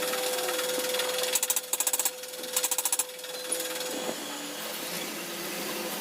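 Hammering power tool used in two short bursts of rapid strikes about a second apart, over a steady hum that stops about four seconds in.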